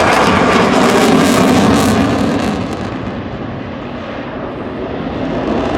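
Eurofighter Typhoon fighter jet flying past, its loud engine noise rushing strongly for the first two to three seconds, then dulling and fading as it moves away.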